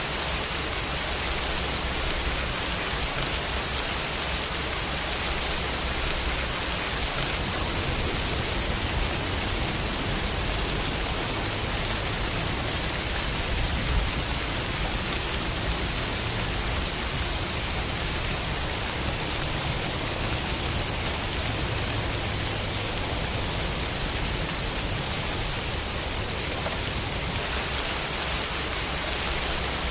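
Steady rain falling in an even hiss of drops, with no let-up.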